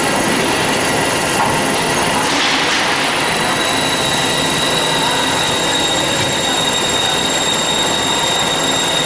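Band saw running and cutting metal with a loud, steady screeching noise; a steady high whine comes in about three and a half seconds in. The blade is running at a raised speed with no coolant water on yet.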